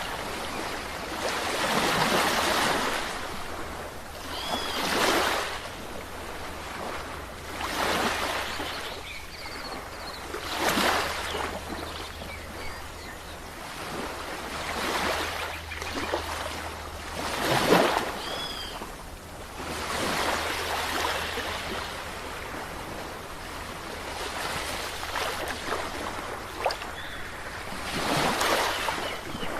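Sea waves breaking and washing up the shore, one surge after another every two to four seconds, with two short high chirps heard twice along the way.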